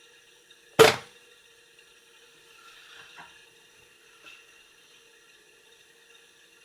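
A single sharp knock about a second in, like a hard object set down or bumped, followed by a few faint small clicks of handling over a steady faint hum.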